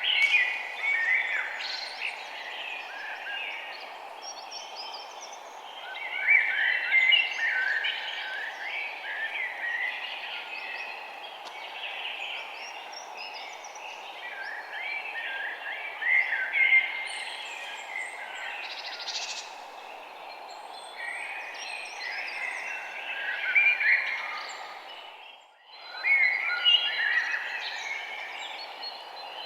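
Several small birds chirping and twittering in quick, overlapping calls over a steady background hiss. About 25 seconds in, everything fades out briefly and comes back.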